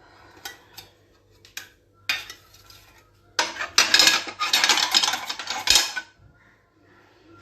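Steel dividers being set into a metal cooking pot: a few separate clinks, then about two and a half seconds of continuous metal clattering and scraping starting a little after three seconds in.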